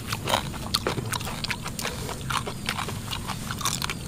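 A person chewing a mouthful of stir-fried water spinach close to a clip-on microphone: a continuous run of irregular crunchy clicks and wet smacks.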